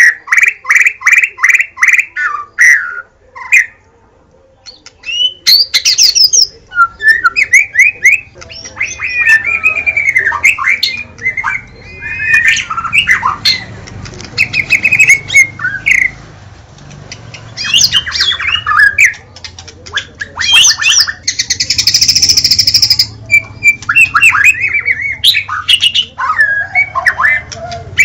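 White-rumped shama (murai batu) singing a loud, varied song: fast runs of repeated notes, rising and falling whistled phrases, and a harsh rasping note about three quarters of the way through, with a short lull about four seconds in.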